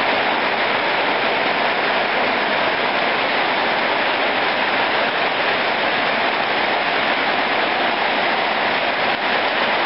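Heavy rain pouring down: a steady, even hiss of rain.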